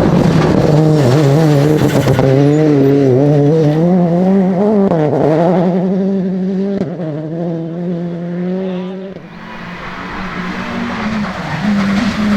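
Rally car engine driven hard on a stage, its pitch rising and falling repeatedly with throttle and gear changes. The sound drops away about nine seconds in, then builds again near the end.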